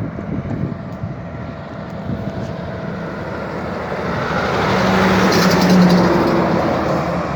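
A road vehicle passing by, its engine and tyre noise building to a peak about six seconds in and then easing off, with wind on the microphone.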